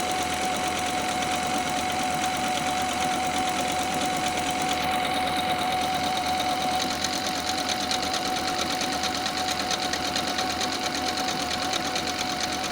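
Computerized sewing machine running steadily on its own, stitching an overlock stitch along a fabric edge: a constant motor whine under fast, even needle chatter.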